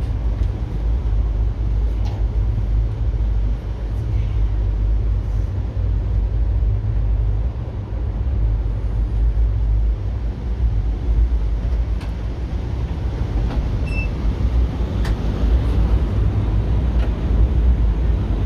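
Steady low rumble of a moving passenger train heard from inside its dome car, with a few faint clicks now and then.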